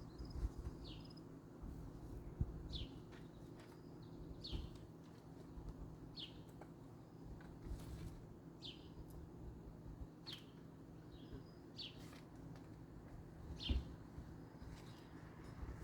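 A bird chirping: short, high, falling chirps repeated every second or two, over a faint steady low hum and a few soft low thuds.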